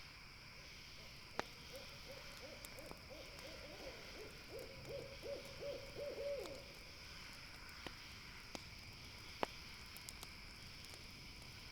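An owl calls a rapid series of short, even hoots for about five seconds, each note dipping slightly in pitch. A few sharp pops from the campfire come over a steady background hiss.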